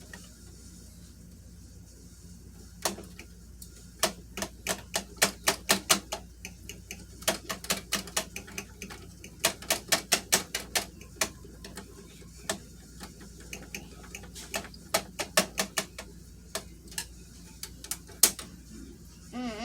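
Sharp clicks in irregular runs of several a second, with pauses between the runs.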